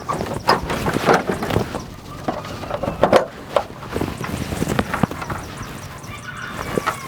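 Irregular knocks and clattering, several a second at uneven spacing, over a steady hiss.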